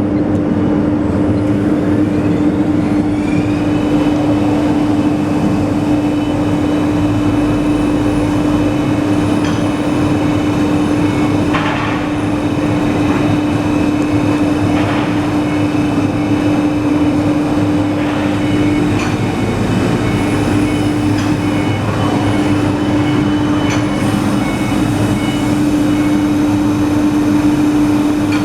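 Segmented-pad sanding machine running steadily: a constant hum with one strong held tone under a steady rush of sanding noise.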